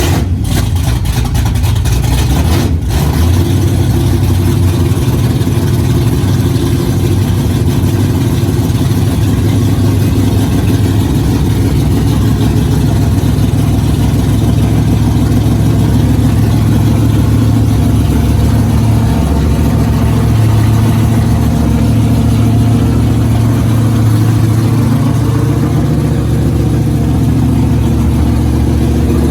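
A 1973 Dodge Challenger drag car's 440 big-block V8 runs steadily and loudly, just after catching on its second start attempt. There is a brief dip about three seconds in. This is the engine's first run after a full teardown, refresh and new cylinder heads.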